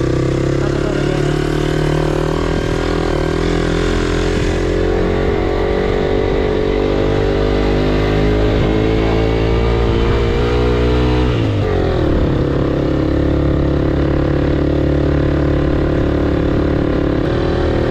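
Motorcycle engine heard from on the bike, its pitch rising slowly as it accelerates through a gear, then dropping sharply about eleven seconds in as it shifts up and running steady after.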